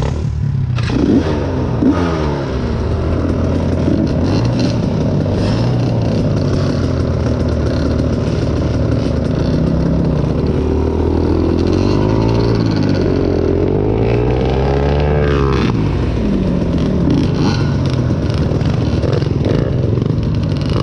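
Dirt bike engines running, revving up and down over and over, with more than one engine heard at once at times. Two brief clattering knocks come in the first couple of seconds.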